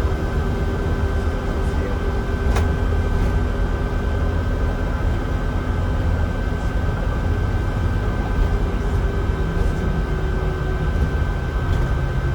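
Cabin noise of a Mercedes-Benz O307 city bus on the move: a steady low rumble from the engine and drivetrain with a thin, steady high tone over it. One sharp click comes a couple of seconds in.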